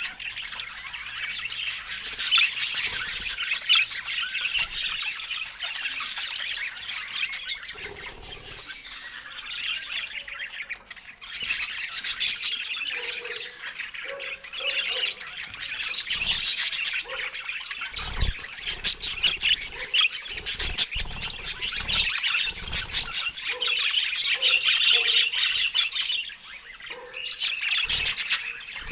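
Budgerigars chattering, a dense stream of rapid chirps, warbles and squawks.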